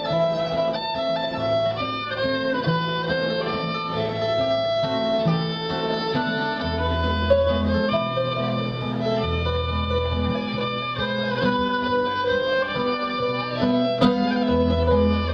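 Live folk-style band music: a fiddle melody over guitar, with low bass notes changing every second or so.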